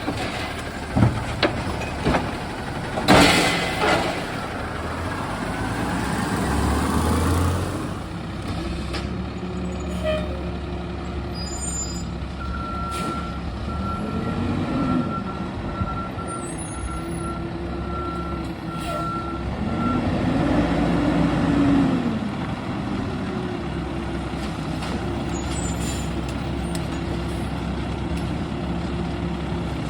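Garbage truck running, with a loud hiss of air brakes about three seconds in. Later comes a stretch of reversing beeps lasting several seconds, while the engine revs up and down twice.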